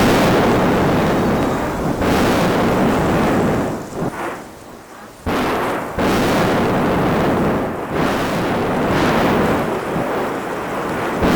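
Mount Etna erupting: continuous deep rumbling blasts from the vent. The noise dips briefly and then returns with a sudden loud blast about five seconds in.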